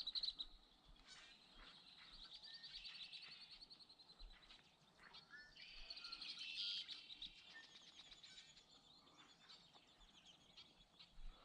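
Faint birdsong: small birds giving rapid high trills and short chirps, with one long trill in the first few seconds and another about halfway through.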